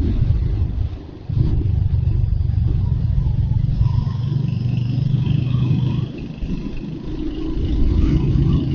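Royal Enfield Hunter 350's single-cylinder engine running under way. The throttle eases off briefly about a second in and opens again, drops back around six seconds, then builds again near the end.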